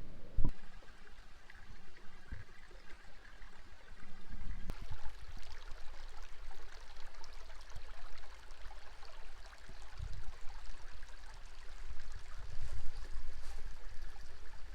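Mountain stream flowing steadily, with a sharp knock about half a second in and low rumbling over the water from about four and a half seconds on.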